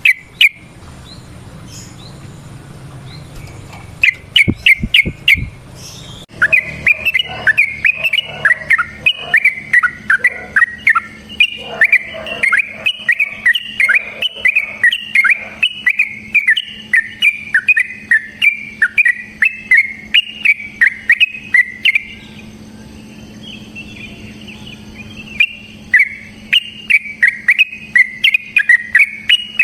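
Yellow-vented bulbul singing: a few short notes, then a long run of rapid, bubbly chirping phrases that breaks off briefly about three quarters of the way through and starts again.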